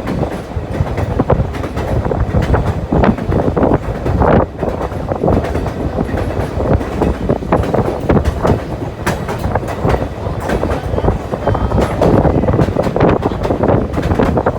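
White Pass and Yukon Route passenger train running along the track, a loud steady rumble broken by irregular knocks and clatter from the wheels and cars.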